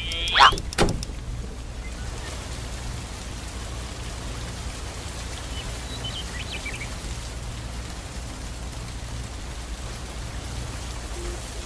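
Steady rain falling, an even hiss of drops on water and hard surfaces. A cow's moo ends within the first second.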